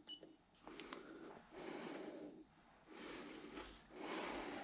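A short electronic beep from a digital gas manometer as the tightness test is set going, then a few light clicks and three long breathy rustles.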